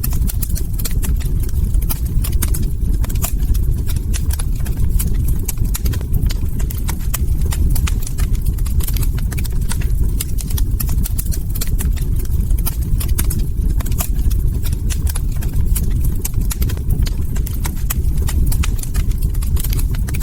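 Log fire crackling: dense, irregular snaps and pops over a steady low rumble.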